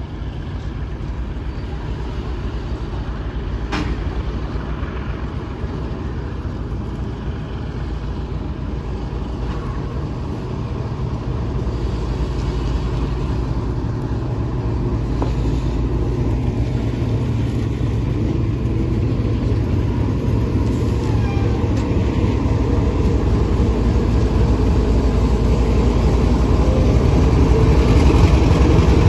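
Diesel-electric freight locomotive running with a deep, steady rumble that grows louder as the train approaches.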